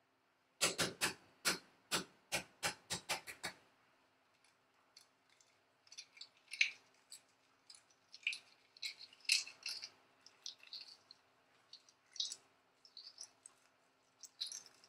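Kitchen food-preparation sounds: a quick run of about a dozen sharp taps, about four a second, in the first few seconds, then scattered lighter crackles and clicks.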